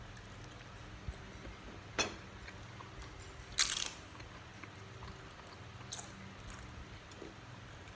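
Mouth sounds of a man chewing a mouthful of siomay, with a few sharp clicks and short scrapes of a metal fork on a plastic food tray; the loudest is a short scrape about three and a half seconds in. A low steady hum runs underneath.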